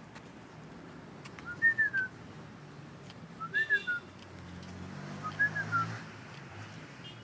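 A caged bird whistling three short phrases, about two seconds apart, each a quick run of notes rising and then falling, over a low background hum.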